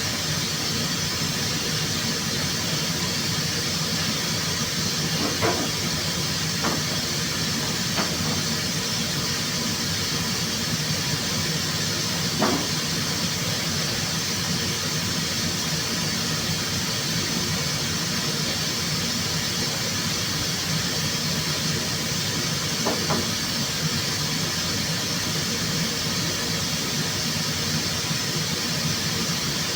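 Steady hiss of rushing air, with a few brief squeaks about five, twelve and twenty-three seconds in.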